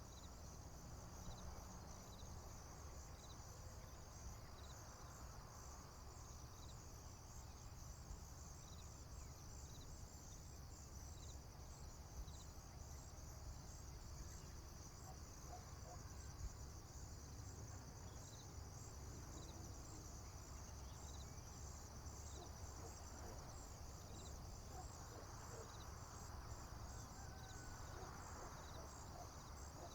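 Faint chorus of crickets in a field: a steady, high-pitched pulsing trill, with a short chirp repeating about once a second, over a low steady rumble.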